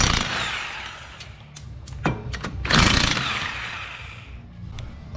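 Mastercraft impact gun hammering on a bolt to break it loose, in two bursts of about a second and a half each: one at the start and another a little before the 3-second mark. A few sharp metal clicks fall between them.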